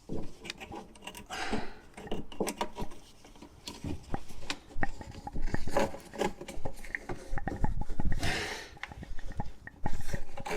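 Hand work on metal parts and tools: scattered clicks, clinks and knocks with stretches of rubbing and scraping.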